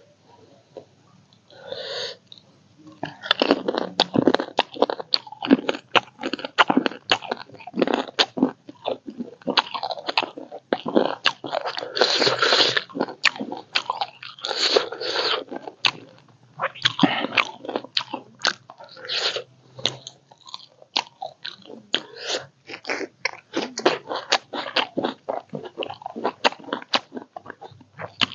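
A person chewing food with the mouth close to the microphone: a dense, irregular run of wet smacking clicks and crunches.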